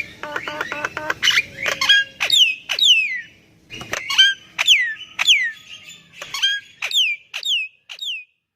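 Javan myna singing: a quick run of buzzy, chattering notes, then a string of sharp whistled notes, each sliding down in pitch, about two a second. The song stops shortly before the end.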